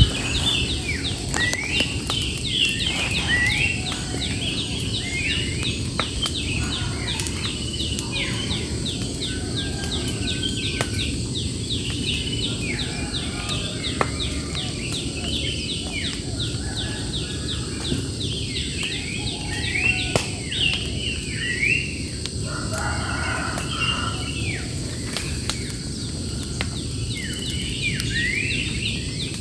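Birds singing: many short, repeated downward-sweeping chirps throughout, with a lower call about two-thirds of the way in, over a steady low rumble and scattered faint clicks.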